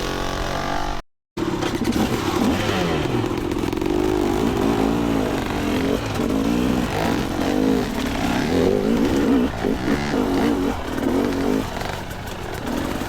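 Two-stroke dirt bike engine revving up and down under throttle while riding, its pitch rising and falling repeatedly. The sound cuts out completely for a moment about a second in.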